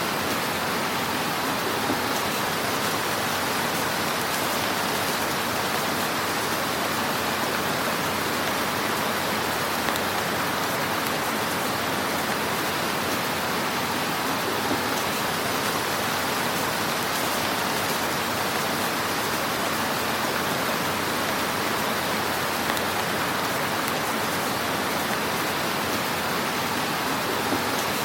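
Fire burning in a fireplace: a steady, dense crackling hiss with a few slightly louder pops.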